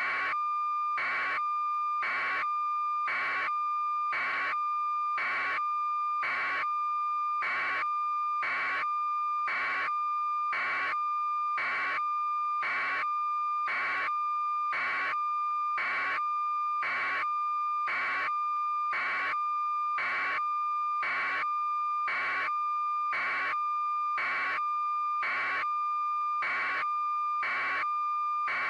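Electronic signal: a steady high tone with an even beep pulsing over it about once a second, unchanging in level throughout.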